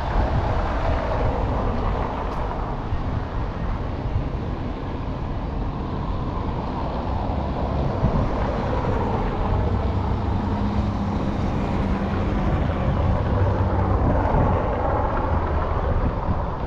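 Road traffic going by: a steady low rumble of engines and tyres, with an engine's hum standing out for a few seconds past the middle, and wind noise on the microphone.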